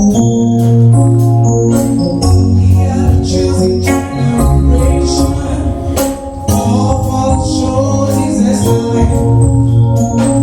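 Live gospel music introduction: electronic organ chords held over a deep bass line, with regular percussion strikes.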